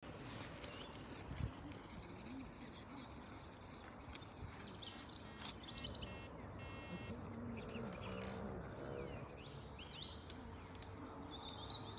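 Quiet outdoor ambience with faint bird chirps and a short buzzing trill about halfway through.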